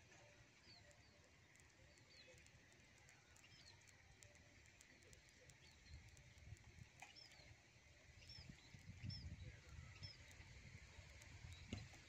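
Faint small-bird chirps: short high notes repeated at irregular intervals over a quiet background, with a low rumble rising in the second half.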